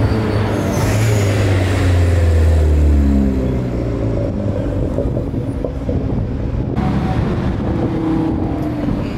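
A sports car's engine pulls away with a loud, low exhaust note for about three seconds, its pitch falling as the car moves off. Then general street traffic noise follows, with another engine note rising briefly near the end.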